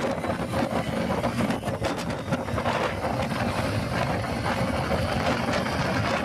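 Honda Unicorn motorcycle's single-cylinder four-stroke engine running steadily with a dense, rapid clatter, the noise the owner means to show as a fault.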